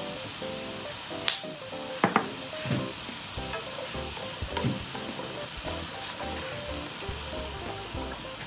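Chicken and diced onion sizzling as they stir-fry in an oiled frying pan while being stirred with chopsticks and a wooden spatula, with a few light clicks between about one and two seconds in.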